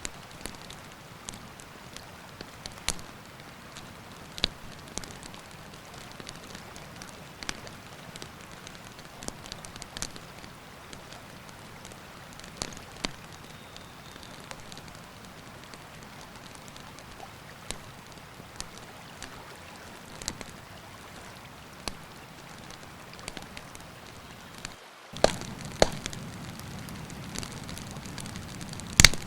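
Wood campfire crackling, with irregular sharp pops and snaps over a steady rush of running river water. About 25 seconds in the sound briefly drops out, then the steady rush comes back louder, with a few loud pops.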